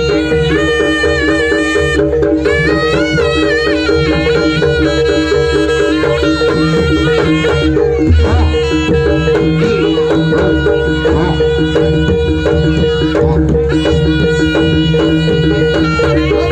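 Javanese jaranan music: a bending, ornamented reed melody over steady held tones and continuous drumming.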